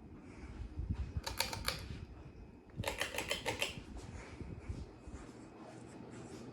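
Ceiling fan running with a steady low hum, broken by two quick runs of sharp clicking, about a second in and again about three seconds in.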